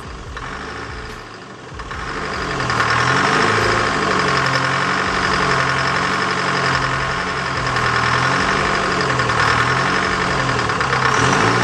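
Detroit Diesel 4-53T turbocharged two-stroke four-cylinder diesel running. It gets louder about two seconds in, and its engine speed then rises and falls slowly several times.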